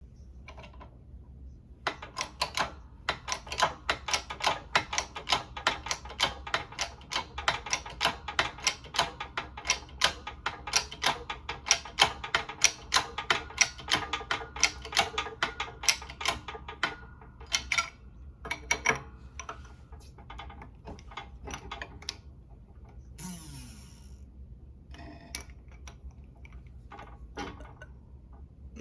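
A hand socket ratchet clicking as it turns a bolt: a fast, even run of metallic clicks, about four or five a second, for some fifteen seconds. After that the clicks slow into scattered clicks and knocks.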